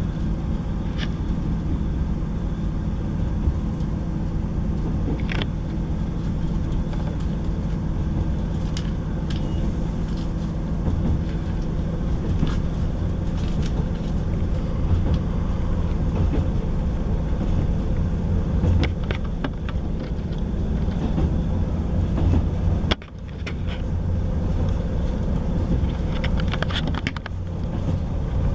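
Class 158 diesel multiple unit heard from inside the passenger saloon while running at speed: a steady low rumble from the engine and the wheels on the rails, with occasional light clicks and rattles. The sound dips sharply for a moment about three-quarters of the way through, then comes back.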